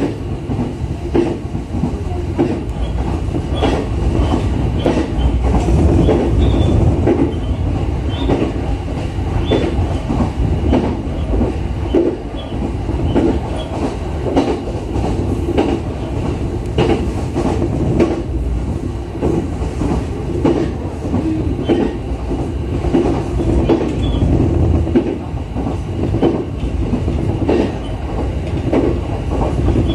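JR East E131 series electric train running, heard from inside the rear cab: a steady low rumble with wheels clacking over the rails again and again.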